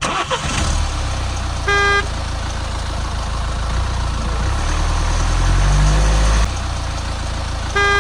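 Vehicle engine running steadily, swelling up about five seconds in and dropping back about a second later, with two short horn beeps, one about two seconds in and one at the very end.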